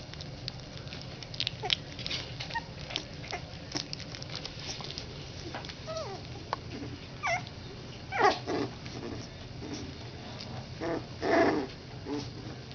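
Three-week-old Schnauzer puppies whimpering and squeaking in short gliding cries, with small scratching and pattering clicks between them; the loudest cries come about two-thirds of the way through and again near the end.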